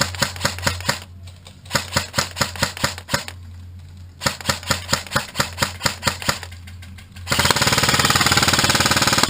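Airsoft gun firing: strings of rapid single shots, about seven a second, broken by short pauses. About seven seconds in comes a continuous full-auto burst lasting about two seconds.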